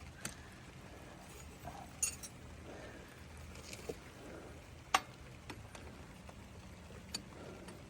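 Hand tools and a hydraulic line fitting clinking against metal as the line is fitted to the tractor, half a dozen sharp taps at uneven intervals, the loudest about five seconds in.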